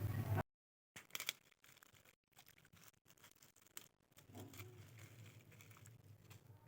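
A louder noisy sound cuts off abruptly about half a second in, followed by a brief dead silence and then faint rustling and light clicks, like small things being handled.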